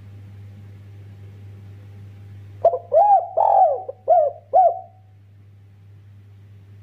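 Spotted dove (derkuku) cooing one phrase of about five notes, the third drawn out longer, starting a little under three seconds in.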